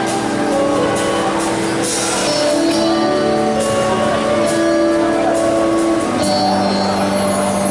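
Live band playing an instrumental passage without vocals: long held chords, with occasional cymbal crashes.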